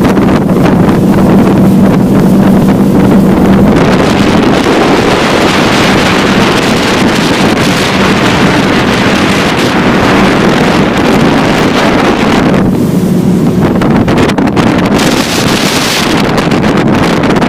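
Motorboat engine running steadily while under way, a constant low hum under heavy wind noise on the microphone.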